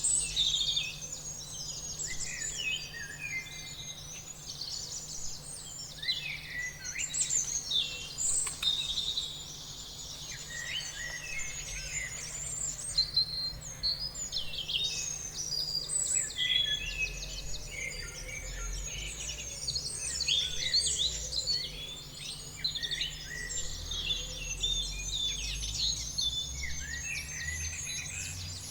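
A chorus of several songbirds chirping and singing at once, with quick overlapping high chirps and trills that never pause. A faint, steady low hum runs underneath.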